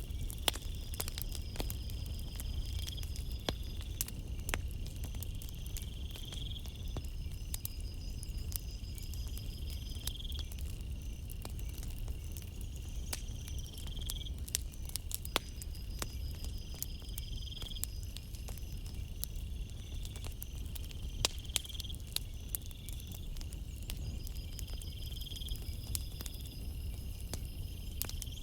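Campfire crackling with scattered sharp pops over a low steady rush, while crickets trill in repeated stretches of a few seconds each.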